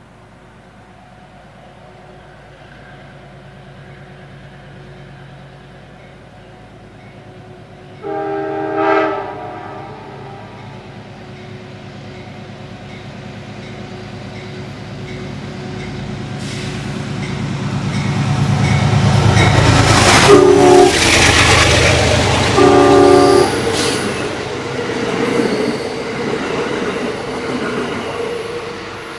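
A locomotive-hauled train approaches and runs through the station. Its horn sounds a chord about eight seconds in, then two short blasts about twenty seconds in as the train goes by. The rumble of the train and its wheels on the rails grows to its loudest as it passes, then fades.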